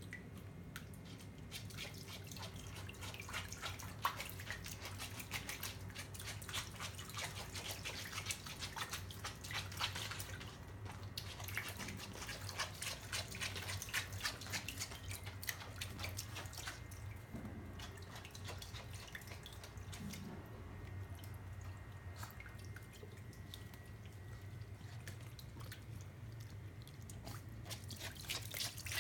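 Water splashing and dripping as a Pomeranian paws and moves about in a shallow pool of water: many small, irregular splashes and drips over a steady low hum.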